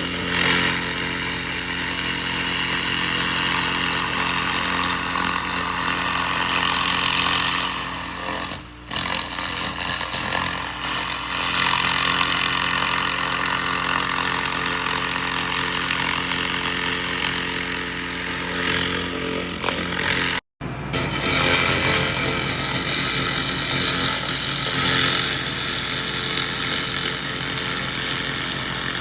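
SFX 2000 W laser rust remover stripping rust from metal: a harsh hiss and crackle that swells and eases over the machine's steady hum. The hiss dips briefly about a third of the way in and cuts out for an instant about two-thirds through.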